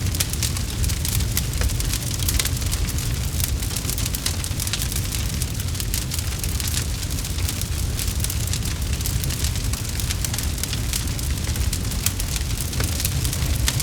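Campfire crackling: a constant stream of small sharp pops and snaps over the low steady rumble of the flames.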